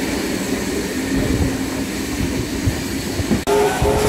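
Vintage passenger trains running on parallel tracks: a steady rumble of the carriages rolling past with irregular wheel knocks. After a sudden break near the end, a steady tone with overtones comes in over the rumble.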